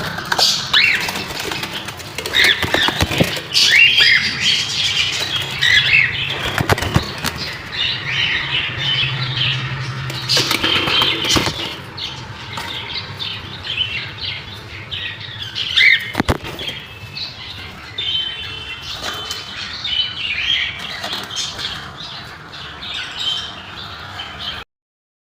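Many small caged parrots in an aviary chirping and squawking over one another, with wings flapping and scattered sharp clicks and knocks. The sound cuts off abruptly near the end.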